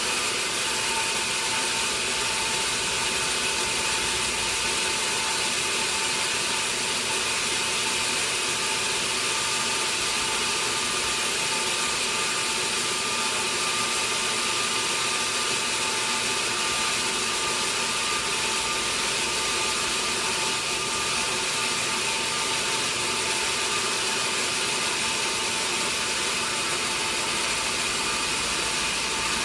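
Sawmill saw running steadily: a continuous mechanical whir with a thin, steady whine over it.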